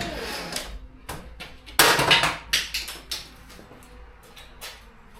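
A few knocks and clicks with a louder clatter about two seconds in, from hands-on work handling hardware during a garage door tear-out.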